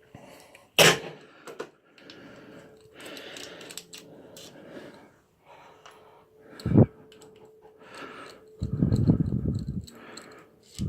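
Workshop handling noises of tools and bolts being picked up and set down: two sharp knocks, about a second in and near seven seconds, and a second-long rattling clatter just after nine seconds, over a faint steady hum.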